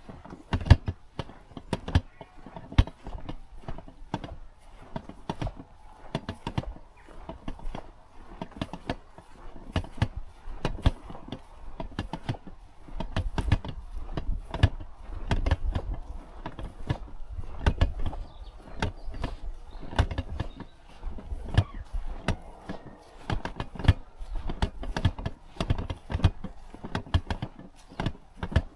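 Footsteps walking on the forest floor: an irregular run of crunching and cracking leaf litter and twigs with dull thuds underneath.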